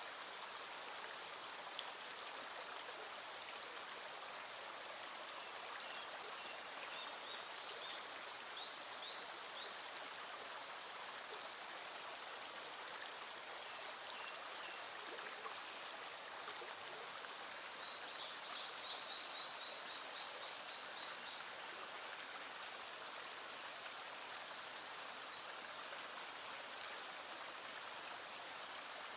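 Small stream flowing steadily. A bird gives a few faint high chirps about six to ten seconds in, then a louder quick run of chirps ending in a short trill about eighteen seconds in.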